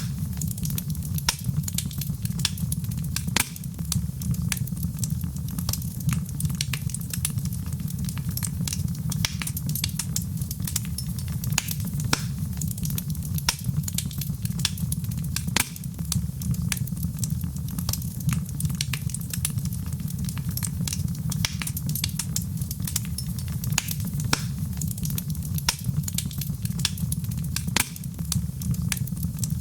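Wood fire burning in a fireplace: a steady low rumble of the flames under constant irregular crackles and pops.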